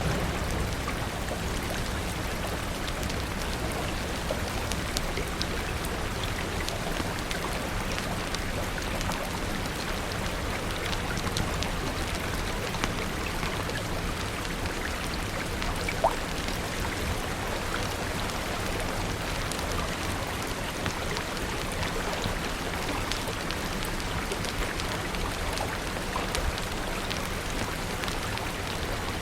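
Steady rain, dotted with small scattered crackles of a wood fire, with one sharper pop about halfway through.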